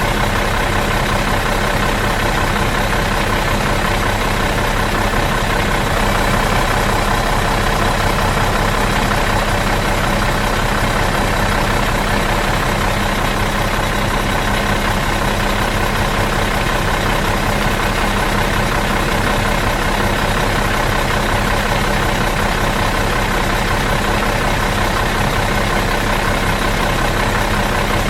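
Bus engine idling in neutral, a steady, even hum that does not change.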